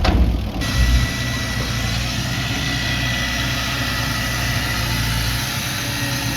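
Heavy diesel earthmoving machine running steadily at low revs, with two heavier low thumps in the first second and a faint steady whine over the rumble.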